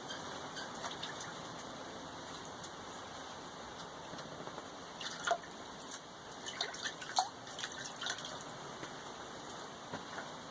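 Water trickling and dripping as a freshly drilled steel billet is cooled down, with a few small clicks and knocks in the middle stretch.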